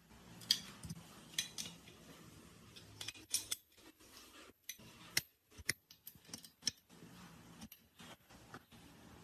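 Small metal parts and hand tools being handled: irregular light metallic clicks and clinks, a dozen or so.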